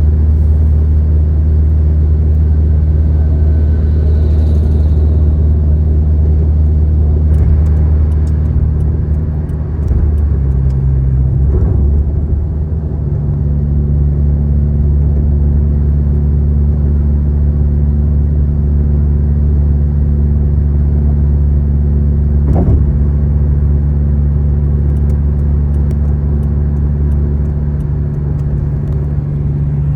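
A car driving on a highway: a steady low drone of engine and tyre noise whose tone shifts about ten to thirteen seconds in. There is one brief knock about two-thirds of the way through.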